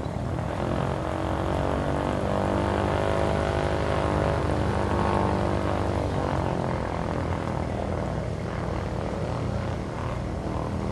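Propeller airplane engine running as the aircraft passes. It grows louder toward the middle, then its pitch drops and it fades slightly.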